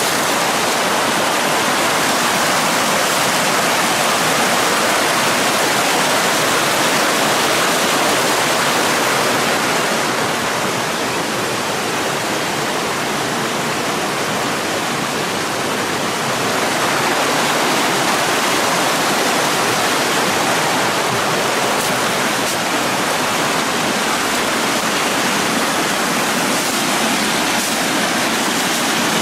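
Waterfall pouring: a loud, steady rush of falling water that swells slightly now and then.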